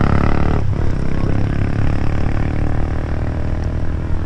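A motor vehicle's engine running steadily close to the microphone, with a heavy low rumble.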